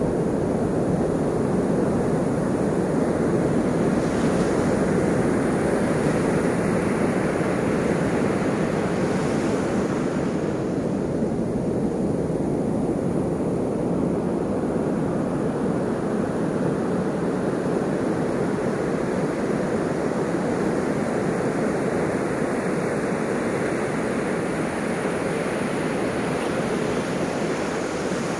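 Ocean surf: a continuous rush of breaking waves, with fresh breakers washing in every several seconds.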